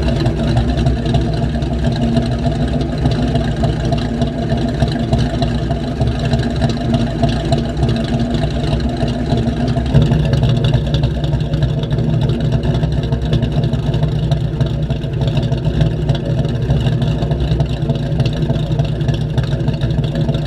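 1990 Ford Mustang's 302 V8 with an E-303 cam idling steadily through a catless Bassani X-pipe, hollow SLP LM1 bullet resonators and Flowmaster 3-inch tailpipes, with a small change in the sound about halfway through.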